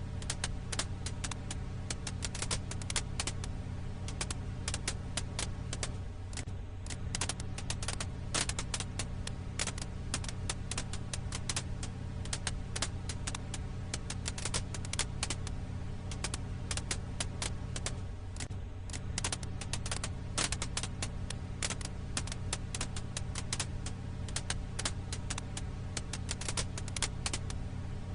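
Firewood crackling in a campfire: dense, irregular sharp pops and snaps over a steady low rumble.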